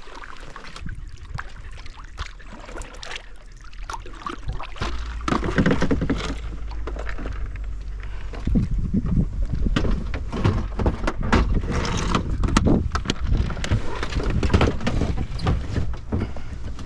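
A canoe in use: repeated knocks and clatters of paddle and gear against the hull, with a low rumble from about five seconds in.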